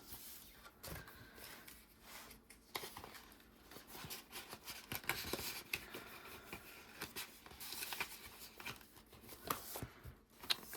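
Faint handling noise of paper cash and envelopes: soft rustling with scattered light clicks and taps.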